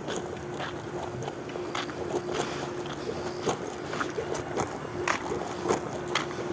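Footsteps of someone walking, irregular sharp steps about one to two a second, over a steady hum that drops out now and then.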